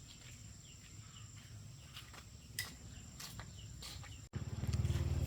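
Faint countryside ambience: a steady high-pitched insect drone with scattered faint chirps and a few light clicks. About four seconds in it cuts off abruptly to a louder engine running with a fast low pulse.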